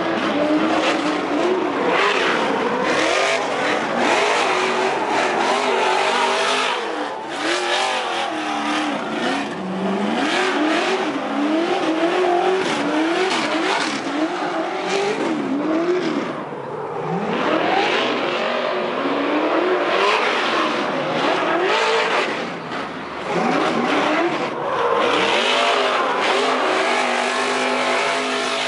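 Trophy truck engines revving hard, the pitch climbing and falling again every second or two as the trucks accelerate and lift off.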